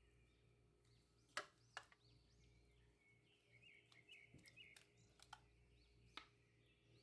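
Near silence with a few faint sharp clicks and faint bird chirps in the background.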